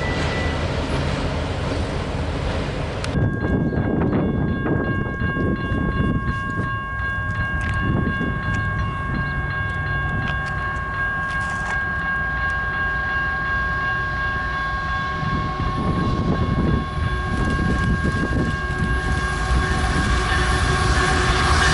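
A train passing with a low, uneven rumble. From about three seconds in, a set of steady high tones is held on over it.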